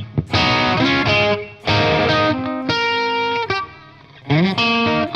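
Telecaster-style electric guitar played through an Origin Revival Drive overdrive pedal: chords and short phrases with brief gaps between them, a quick upward slide about four seconds in, then a chord left ringing.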